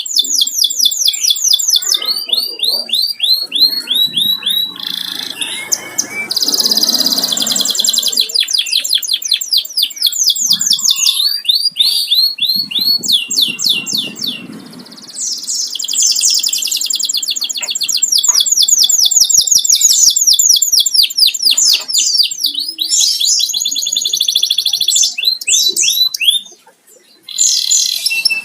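Domestic canary singing on and on: long, fast trills and rolls broken by short pauses, the full song of a male in breeding condition.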